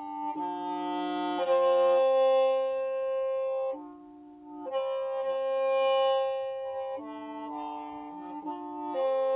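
Qeej, the Hmong free-reed bamboo mouth organ, played solo: several pipes sound together in held chords that shift every second or so, with a softer passage about four seconds in.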